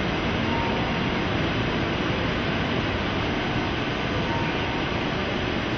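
E2 series shinkansen train at the platform: a steady rumbling, hissing noise with no separate knocks or clicks.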